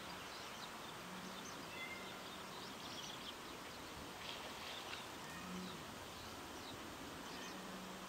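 Faint, scattered high chirps of small birds over a steady outdoor hiss, with a low hum that comes and goes.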